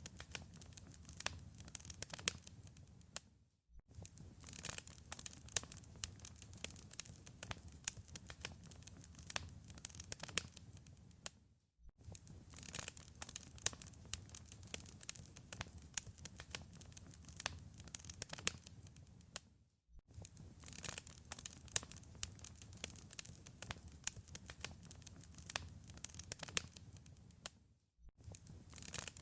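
Wood fire crackling in a fireplace, with many sharp pops and snaps over a low rumble. It fades out and back in briefly about every eight seconds, as the recording loops.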